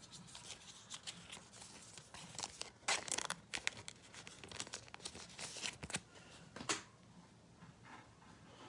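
Plastic trading-card packaging being handled, crinkling and tearing in quick crackly bursts, loudest about three seconds in and again near the end.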